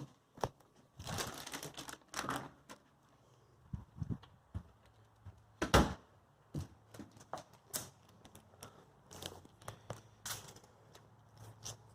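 Irregular clicks, knocks and rustling from small motorcycle parts being handled and set down, with the loudest knock about six seconds in.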